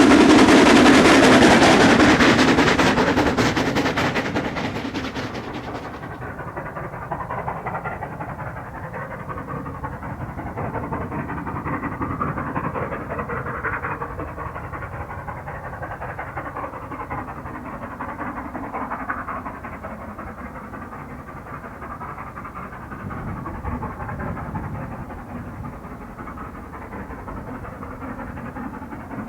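Steam locomotive passing close, loud at first and dying away over the first few seconds; from about six seconds in only a quieter, uneven rumble with swells remains as it moves off.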